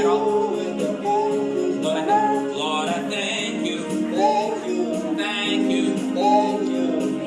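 Worship band playing and singing a song: a sung melody over steady, held instrumental chords.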